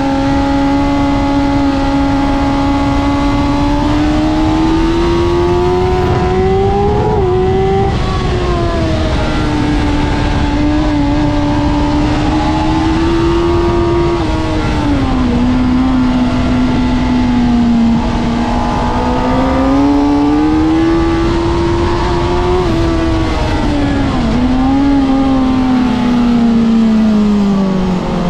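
Sport motorcycle engine heard on board at high revs, its pitch slowly rising and falling with the throttle, with a few brief dips, over steady wind and road noise.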